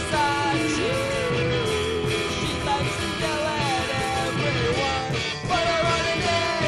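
Rock song with a full band playing and a melody line that slides between notes, which may be a voice singing without clear words or a lead instrument.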